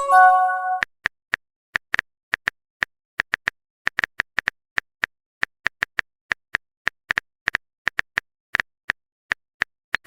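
A phone message alert, a quick rising swoop and a short chime, followed by a long run of smartphone keyboard tap clicks, several a second, as a text message is typed out.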